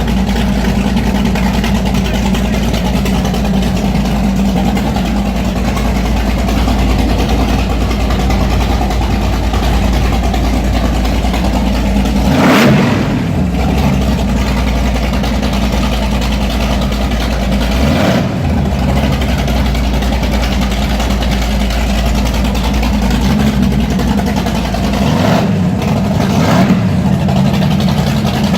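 Mercury Racing 565 hp V8 marine engine idling with a steady low burble, blipped up in short revs four times: once about halfway, again a few seconds later, and twice in quick succession near the end.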